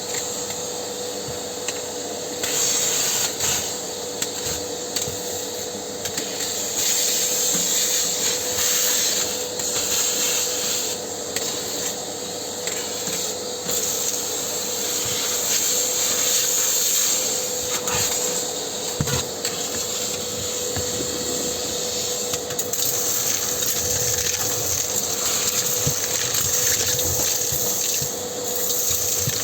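Vacuum cleaner running steadily, sucking plaster dust out of a fireplace duct; its hiss rises and falls every few seconds as the airflow through the nozzle changes, over a constant motor hum.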